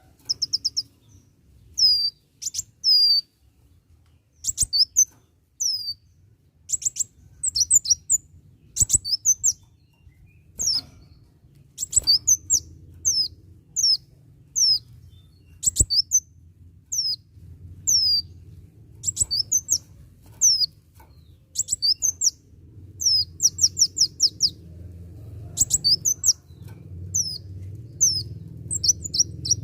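Kolibri wulung sunbird singing in full voice: short, quick bursts of high, downward-sweeping chirps, repeated every second or two. A few sharp clicks are mixed in, and a low hum grows louder toward the end.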